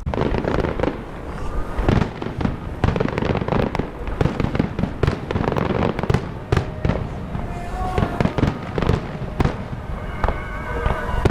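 Fireworks display in a rapid barrage: many overlapping bangs and crackles firing in quick succession, starting suddenly and keeping up without a break.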